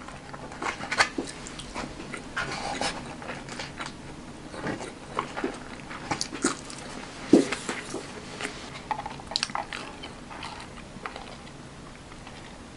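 A person eating: chewing and biting into fried chicken, spring rolls and rice, with scattered short clicks and crunches.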